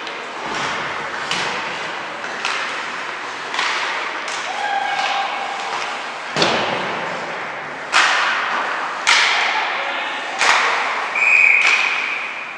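A series of sharp knocks and thuds echoing through a large hall, about seven spread over the stretch, with a brief high steady tone near the end.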